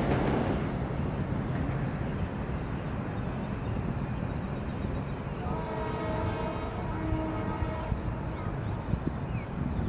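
Low rumble of a Metro-North electric train fading as it moves away over the bridge. About five and a half seconds in, a steady chord of several tones sounds for about two seconds.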